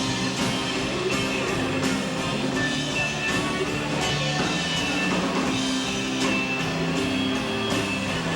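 Live rock band playing an instrumental passage: guitar over a drum kit keeping a steady beat, recorded from the audience on a VHS-C camcorder's microphone.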